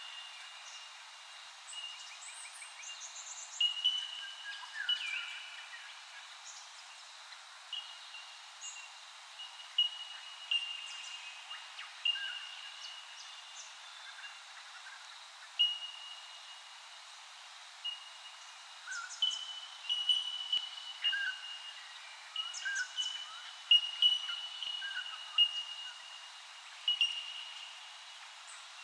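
Birds calling: many short chirps and whistles, with a high, clear, ringing note repeated again and again through them.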